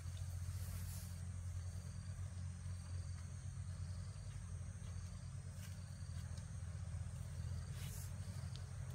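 Steady chirring of crickets or other insects in a high, even band, over a constant low hum.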